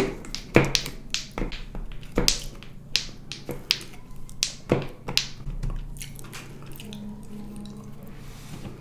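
Mouth sounds of eating sour candy: irregular sharp lip smacks and wet clicks, coming close together at first and thinning out toward the end.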